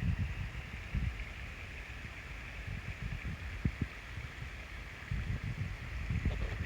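Waterfall rushing in a steady hiss, with wind buffeting the microphone in irregular low gusts.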